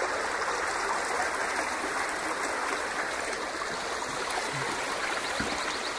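A clear forest brook flowing, a steady babbling rush of water.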